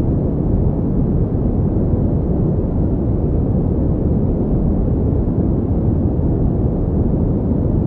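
Steady synthetic pink noise: an even, deep hiss with most of its weight in the low range and little treble, unchanging throughout.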